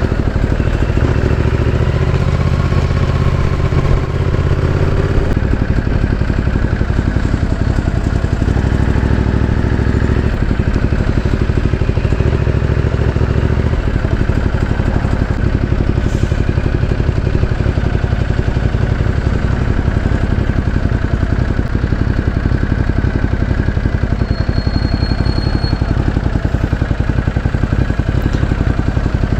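Ducati Multistrada 1200S twin-cylinder motorcycle engine running at low speed, pulling in short spells during the first half, then ticking over steadily.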